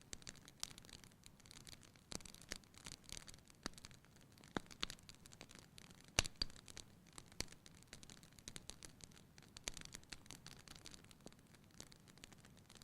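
Wood fire burning in a fireplace, crackling: irregular sharp pops and snaps over a faint hiss, the loudest pop about six seconds in.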